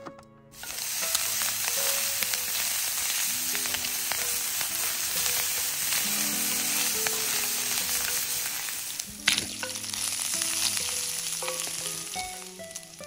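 Diced pork frying in hot oil in a cast-iron skillet over a campfire, a loud steady sizzle that starts about half a second in, stirred with a wooden spoon. A single sharp knock about nine seconds in.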